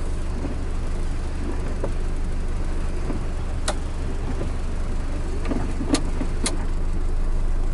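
GAZelle van's engine idling with a steady low hum. A few sharp ticks sound in the second half.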